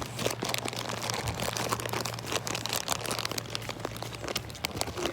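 Dense, irregular crackling and rustling, as of dry leaves and brush being walked through, over a steady low hum.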